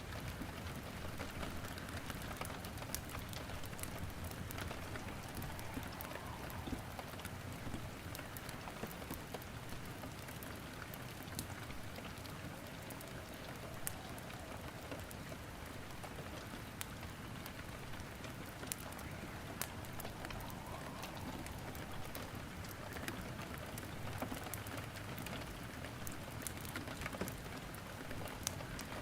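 Steady rain mixed with wood crackling in a fireplace: an even rain hiss with frequent small, sharp pops scattered through it.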